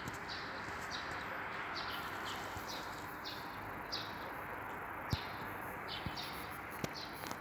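A small bird calling, one short high chirp repeated over and over, roughly one to two a second, over steady background town noise, with a few faint knocks in the second half.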